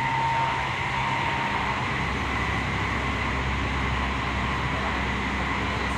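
Cabin running noise of a Toyo Rapid Railway 2000 series electric train travelling at speed between stations: a steady rumble of wheels on rail. A thin high tone fades out about a second and a half in, and the low rumble grows heavier about two seconds in.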